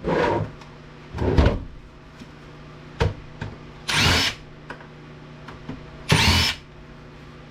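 Power drill/driver run in four short bursts, about half a second each, backing screws out of the case of an APC battery backup unit being taken apart; the motor's pitch rises during each of the later bursts.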